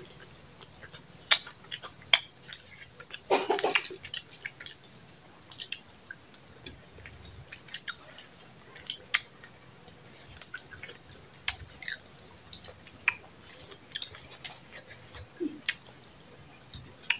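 Close-up chewing and mouth sounds of people eating rice and chicken with their hands, a scatter of sharp wet clicks throughout, with one short louder noisy sound a little over three seconds in.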